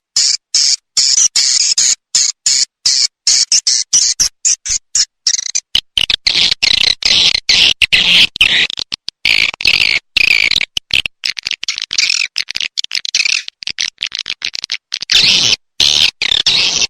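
Recorded edible-nest swiftlet calls, a dense, rapid, high-pitched twittering used as a lure track to draw swiftlets into nesting houses. The calls are chopped by many abrupt brief drop-outs into silence.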